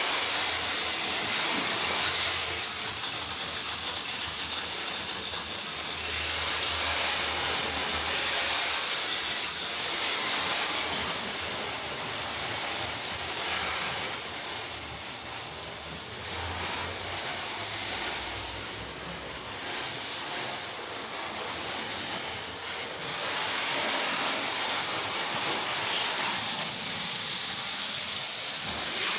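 Water from a garden hose spraying over a car's engine bay, rinsing off the cleaner: a steady hiss of spray spattering on the engine. It is a little louder for a couple of seconds near the start.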